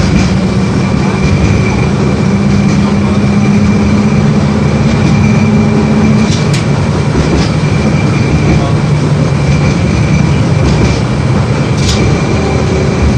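LVS-86K tram running between stops, heard from inside the car: steady wheel-and-rail rumble with a low motor hum that drops in pitch about six seconds in, and a few sharp clicks.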